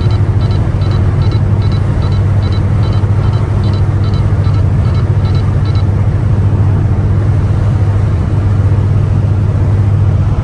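The catless, straight-piped exhaust of a 2015 Ford Taurus Limited droning steadily while driving on the highway, heard from inside the car with road noise. For the first half a rapid series of short high electronic beeps repeats about two or three times a second, then stops.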